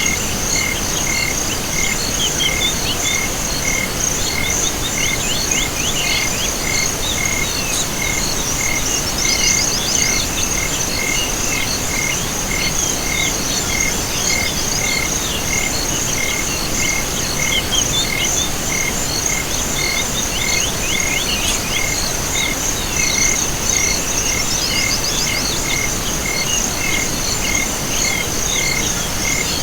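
A night chorus of insects and frogs: a continuous high, pulsing insect trill, a lower call repeated evenly about twice a second, and bursts of rapid chirping calls that rise and fade a few times over a faint steady hiss.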